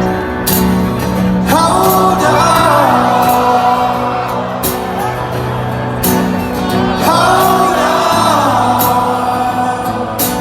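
Live band music in a large venue: sustained chords and bass under a male voice singing two drawn-out phrases, with crowd cheers mixed in.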